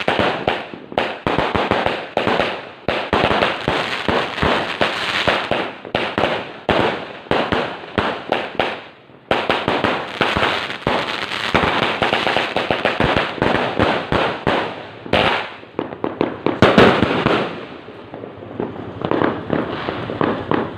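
A 188-shot fireworks cake firing: a dense run of rapid bangs and crackling bursts, with a brief lull about nine seconds in and looser crackling near the end.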